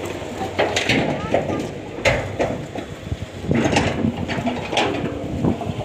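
Indistinct voices of people talking, mixed with irregular knocks and clatter.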